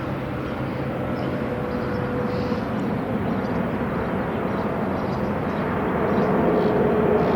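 Steady rumble of an airplane flying low overhead, with a faint steady hum in it, growing louder near the end.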